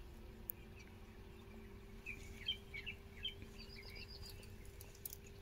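Faint bird chirps: short calls in quick runs over a low steady hum.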